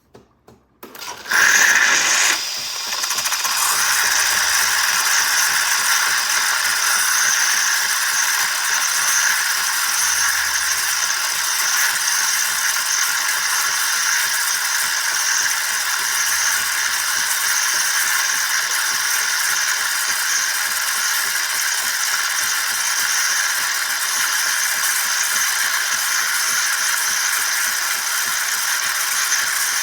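Philips 3200 Series LatteGo espresso machine frothing milk for a cappuccino: steam hisses steadily through the LatteGo frother, starting loudly about a second in.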